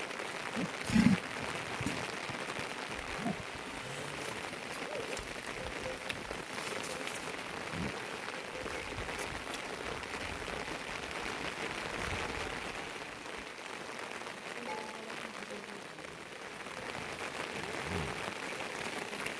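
Steady heavy rain falling, an even hiss, with a few low thuds, the loudest about a second in.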